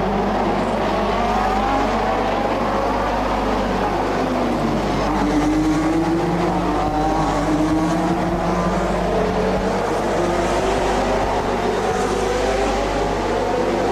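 1988 Formula One cars' engines running, several at once, their pitches rising and falling as they rev and shift.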